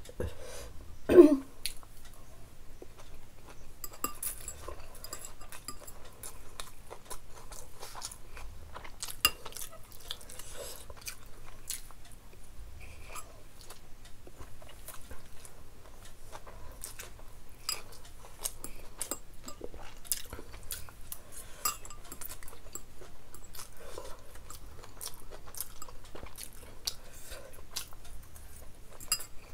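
Close-miked chewing and mouth sounds of a person eating, with frequent light clicks of a spoon against bowls and plates. About a second in there is a brief louder sound that falls in pitch.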